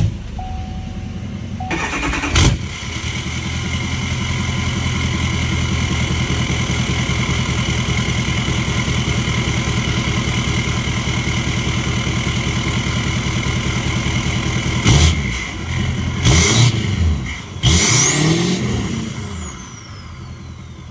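L5P Duramax 6.6-litre V8 turbodiesel cranking and catching about two seconds in, then idling steadily. Near the end it is revved three times, with a high whistle that falls away as it settles back to idle. The engine is being run to check for a misfire from a suspected bad injector.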